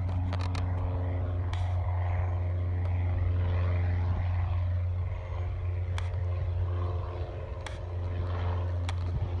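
Propeller airplane engine running steadily over a constant low hum, a little louder around the middle.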